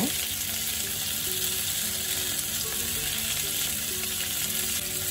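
Chicken kebab skewers shallow-frying in a little oil in a pan, a steady sizzle.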